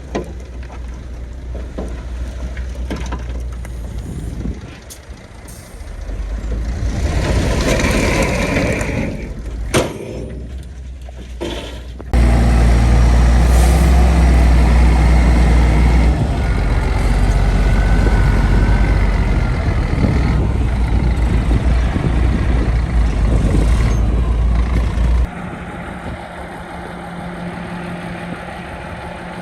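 Heavy diesel earth-moving machinery, bulldozer and dump truck engines, running hard under load with a deep low rumble. The sound jumps abruptly louder about twelve seconds in and drops suddenly near the end, as between different machines or shots.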